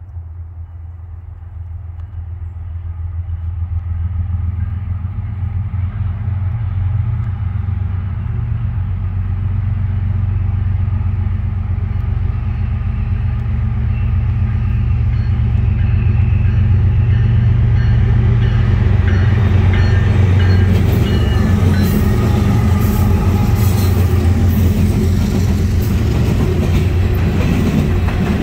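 A Norfolk Southern coal train approaching and passing: the low rumble of its diesel locomotives grows steadily louder. From about two-thirds of the way in, the coal hoppers roll past close by with rapid clicking of steel wheels over the rail joints.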